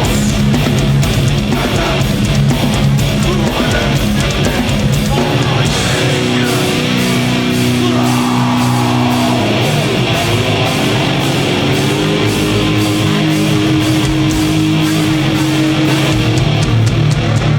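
Live heavy metal band playing loud: distorted electric guitars, bass and drums pounding a steady beat. Through the middle, a guitar holds long notes, one bending upward before it sustains.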